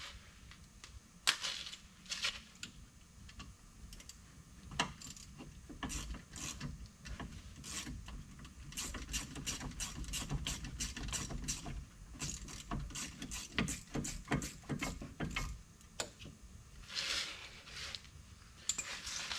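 Irregular metallic clicks and clatter of hand-tool work on a brake caliper and its slide pins, with runs of quick ratchet clicking in the middle.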